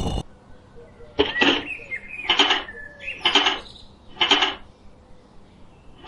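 A small hand tool scraping on brick or cement in about five short strokes roughly a second apart, with a light clink, then a pause.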